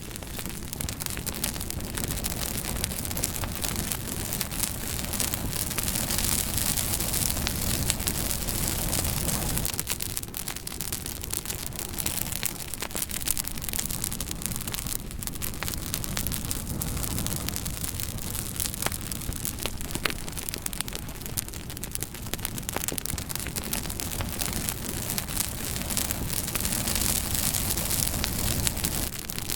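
Wood fire crackling and popping steadily: a dense run of small sharp snaps with a few louder pops, over a steady low rushing of the flames.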